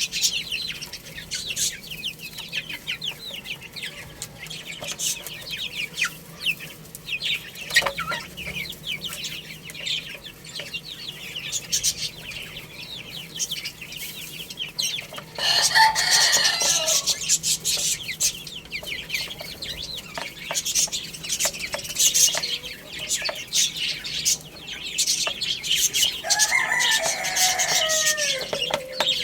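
Chicks peeping rapidly and continuously. A loud adult chicken call comes about halfway, and near the end a rooster crows, falling in pitch at the tail.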